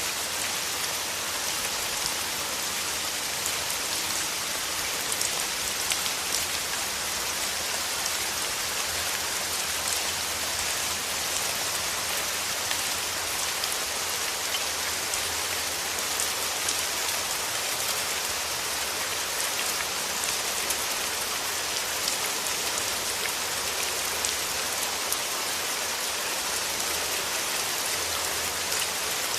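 Steady rain falling through forest trees: an even hiss dotted with the small ticks of single drops.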